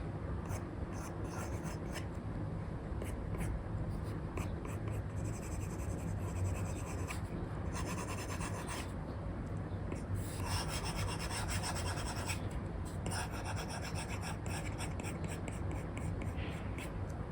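Apple Pencil stylus nib scratching across a paper-like screen protector on an iPad while sketching. Short quick strokes come first, then longer stretches of back-and-forth rasping hatching, over a steady low hum.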